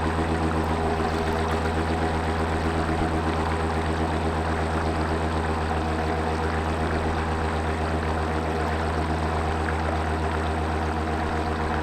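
Radio-controlled model boat's motor running at a steady speed, with water rushing and splashing around the hull.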